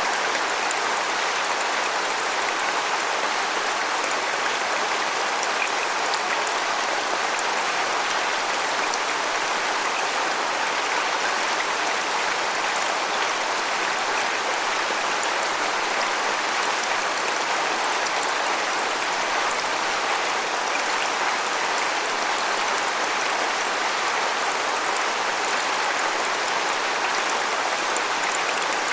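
Waterfall: a steady, even rush of falling water splashing, with no change in level.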